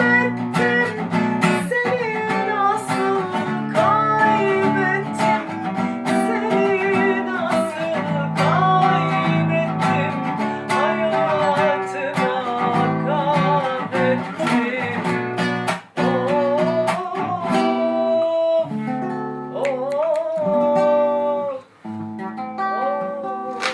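Acoustic guitar strummed and picked, with a voice singing a melody over it and two brief breaks in the playing.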